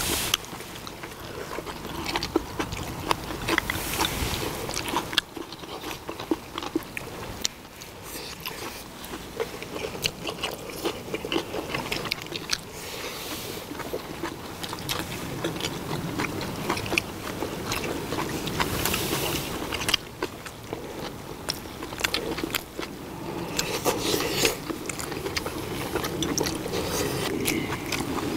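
Close-up eating sounds of several people chewing stir-fried pork with kimchi and rice, with many small clicks of chopsticks and bowls and a few short hissy mouth sounds.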